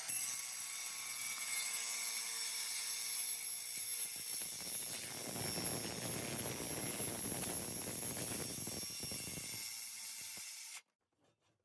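High-speed power cutting tool running with a steady high whine, biting into metal exhaust pipe from about five seconds in, then shutting off abruptly near the end.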